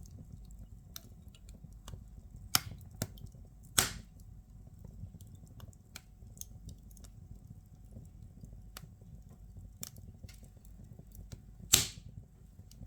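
Firewood crackling as it burns in a fireplace: scattered small snaps over a low steady rumble of the fire, with three loud sharp pops, two close together about two and a half and four seconds in and one near the end.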